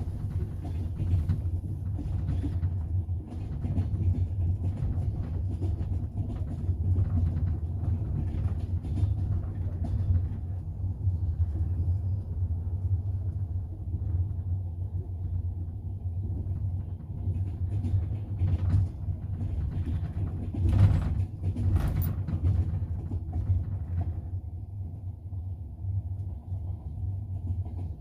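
Moving double-decker passenger train heard from inside the carriage: a steady low rumble of the running gear with irregular clicks and knocks of the wheels on the rails, two of them sharper about three quarters of the way through.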